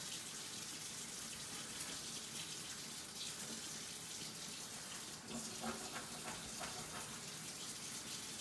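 Kitchen tap water running steadily into a sink, with a few light clicks and knocks about five to seven seconds in.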